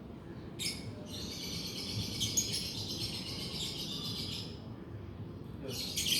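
Lovebird chattering: a long run of shrill, rapid twittering, then a shorter burst near the end.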